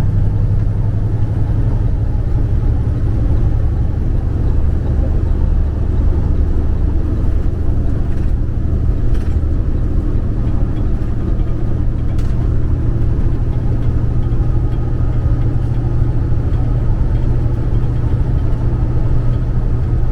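Semi-truck diesel engine running, a steady low drone.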